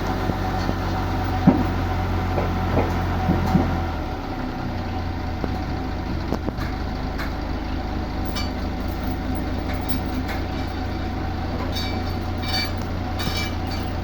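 A heavy engine running steadily, its lowest hum dropping away about four seconds in, with scattered light knocks and clicks.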